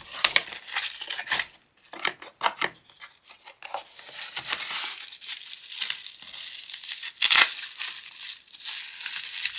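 Packaging for the gloves' battery packs and charger being opened by hand: crinkling, rustling and tearing with scattered clicks, and one louder rip about seven seconds in.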